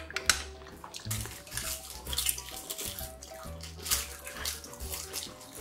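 Close-up wet chewing and mouth sounds of someone eating grilled abalone, with a sharp click about a third of a second in, over soft background music.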